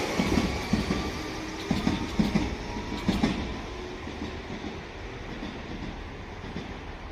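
Sanyo Electric Railway train passing, its wheels clacking over rail joints in a quick run of knocks for the first three seconds or so, then the running noise dying away as it recedes.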